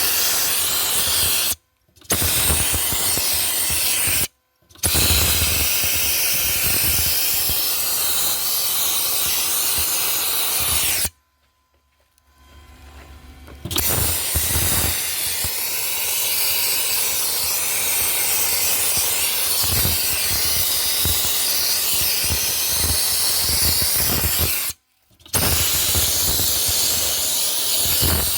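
Dry ice blaster nozzle jetting compressed air and dry ice pellets, a loud steady hiss. It cuts off and restarts four times: twice briefly in the first five seconds, for about two seconds near the middle, and briefly near the end.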